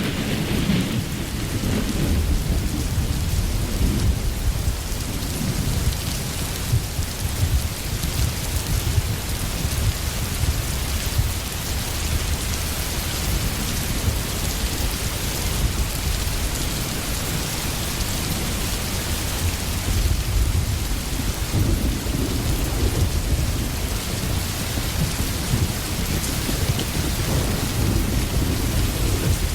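Steady heavy rain falling, with low rolling thunder that swells near the start and again in the second half.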